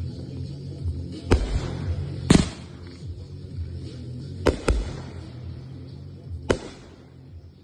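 Consumer fireworks going off: five sharp bangs at uneven intervals, two of them in quick succession about halfway through.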